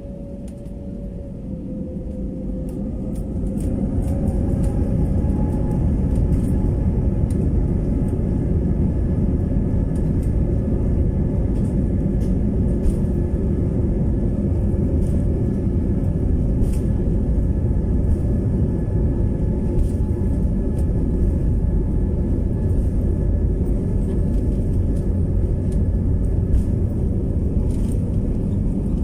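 Airliner jet engines heard from inside the cabin: a deep rumble that swells over the first few seconds as a whine rises in pitch, then runs at a steady high level, typical of the engines spooling up to high thrust.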